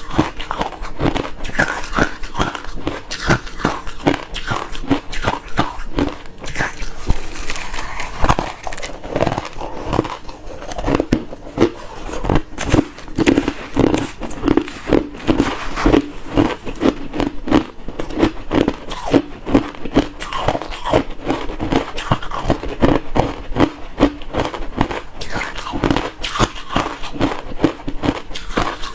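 Refrozen crushed ice being chewed close to the microphone: rapid, continuous crunching, several crunches a second.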